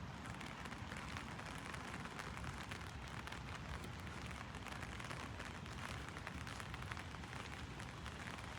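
Heavy rain falling on an umbrella overhead: a steady, dense patter of many small drop hits.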